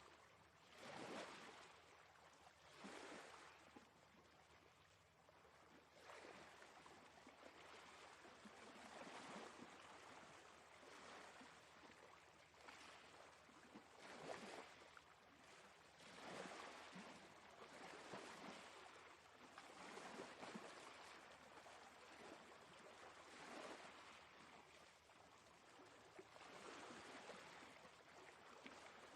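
Faint sea waves washing in, a soft hiss of water that swells and fades every couple of seconds.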